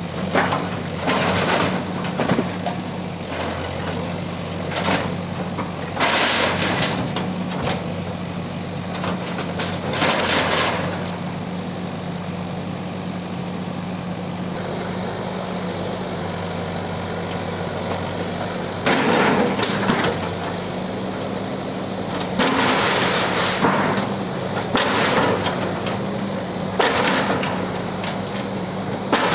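Bulldozer's diesel engine running steadily through a building demolition, broken by several loud bursts of crashing and scraping a few seconds apart.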